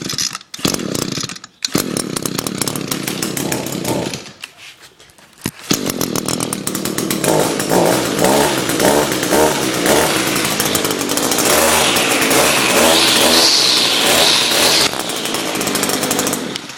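Echo GT-225 string trimmer's small two-stroke engine pull-started with the choke off, catching quickly but dropping away twice before running steadily. It is then revved up and down in pulses, with a high whine rising and falling in the second half, and cuts off near the end.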